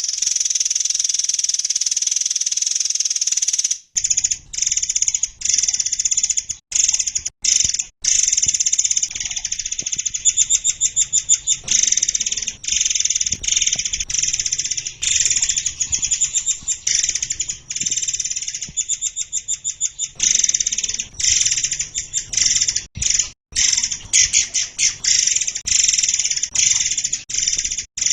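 Songbird singing a dense, continuous high-pitched song of sharp, piercing notes and harsh rasping phrases, broken by runs of rapid repeated notes. This is masteran song, used to teach competition birds.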